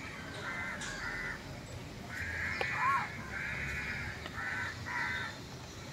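Birds calling: a string of about seven short calls, one after another.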